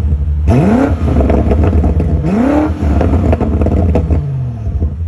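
BMW M8 Competition's twin-turbo V8 through its stock exhaust, revved twice: each time the pitch climbs quickly and falls back, with crackles as the revs drop, before settling lower near the end.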